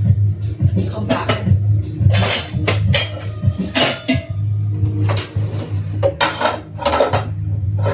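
Dishes and cutlery being hand-washed, clinking and clattering in irregular knocks, over a low steady hum.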